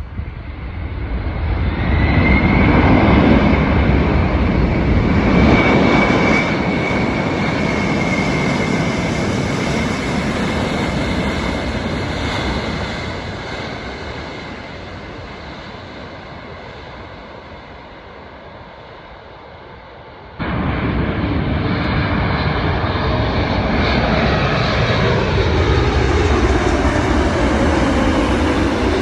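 Jet airliner passing close on arrival, its engines running with a steady high fan whine that swells over the first couple of seconds and then fades away. About two-thirds through, an abrupt cut brings in another loud pass-by with a slowly falling tone.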